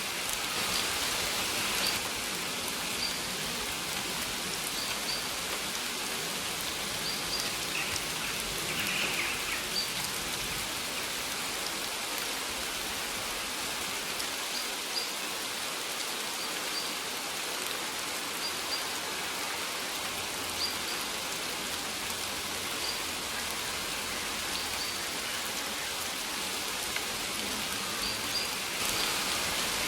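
Steady rain falling, an even hiss of drops on surfaces. Short high bird chirps repeat every second or two over it.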